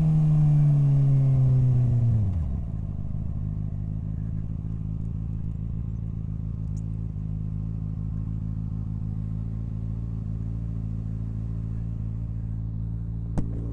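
Suzuki SV650 V-twin engine winding down as the bike slows over about two and a half seconds, then idling steadily. A single sharp click comes near the end.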